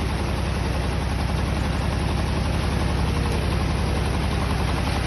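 Farm tractor engine running steadily with a low, even engine note.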